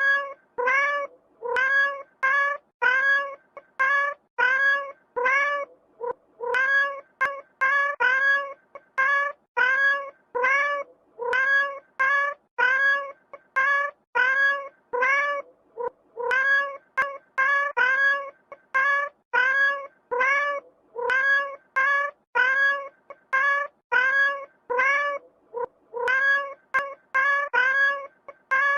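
Domestic cat meowing over and over: short, evenly spaced meows about two a second, each much like the last, with a brief pause every ten seconds or so.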